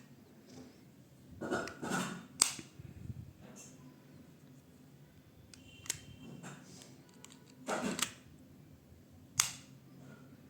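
Handling noises from unboxing a pair of wireless earbuds: short rustles of packaging and three sharp plastic snaps or clicks, the loudest about two and a half seconds in, the others near six and nine and a half seconds.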